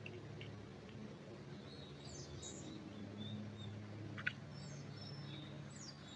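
Wild birds giving short, high chirps and quick call notes over a steady low hum, with one sharp click a little past four seconds in.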